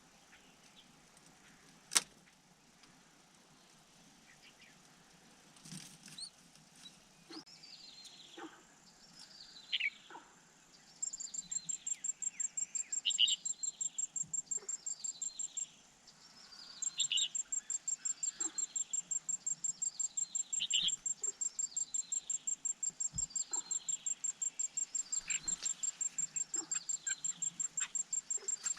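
A bird chirping, a short downward-sliding call repeated about once a second. About five seconds after the chirps begin, a fast, high, even pulsing trill joins, breaking off briefly near the middle. A single sharp click comes about two seconds in.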